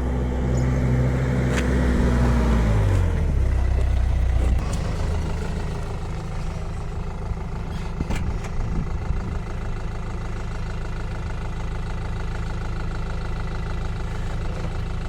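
A vehicle engine running loudly. Its pitch drops about three seconds in as it slows, then it runs on steadily at lower revs.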